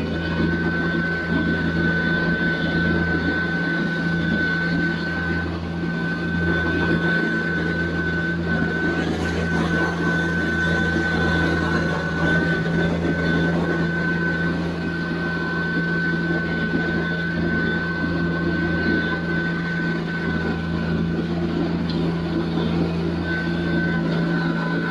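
TYM T574 tractor's diesel engine running steadily at working revs, with a constant high whine over the engine note.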